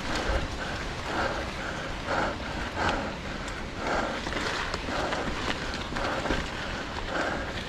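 A mountain biker panting hard in a quick, even rhythm while pedalling a climb, over a steady rumble of wind on the helmet camera's microphone.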